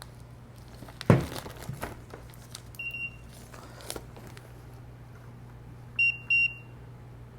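Multimeter continuity beeper testing fuses: one short high beep about three seconds in and two quick beeps near six seconds, a beep meaning the fuse conducts and is intact. A loud knock and some handling clatter about a second in, over a steady low hum.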